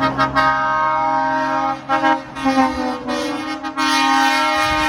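Truck air horns with several pitches sounding together, blown in a run of short toots and then a longer held blast near the end.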